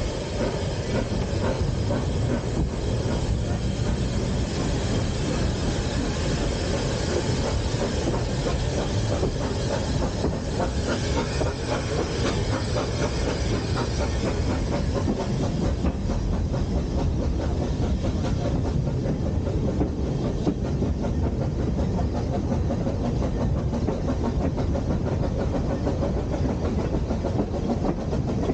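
Narrow-gauge steam-hauled train running, heard from a carriage window: a steady rumble of wheels on the rails with clicking over the rail joints.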